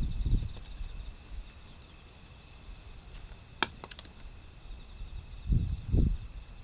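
Gusts of typhoon wind buffeting the microphone as low rumbles, one at the start and one near the end. A few sharp cracks sound in between, about halfway through, typical of a wood fire popping.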